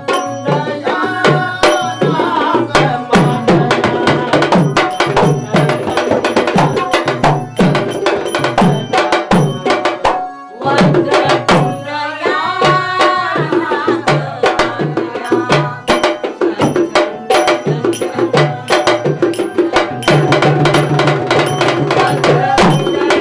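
Traditional Marathi tamasha folk music: a steady hand-drum rhythm with a melody over it, no singing recognised. The music breaks off for a moment about ten seconds in, then resumes.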